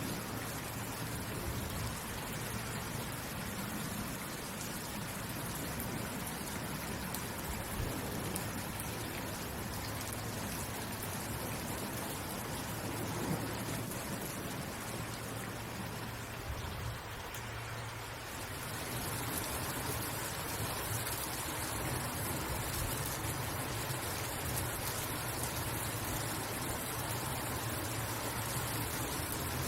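Steady rain falling, an even hiss of many drops. It dips briefly about two-thirds of the way through, then comes back slightly louder.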